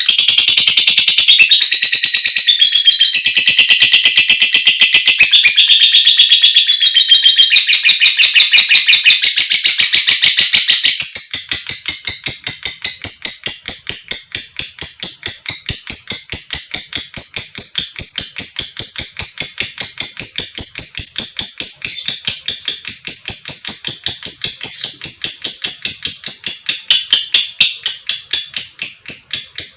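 Female fighter lovebird calling: a long, dense chattering trill (ngekek) for about the first ten seconds, then an abrupt switch to a fast, even run of short sharp ticking calls (ngetik) at about four a second.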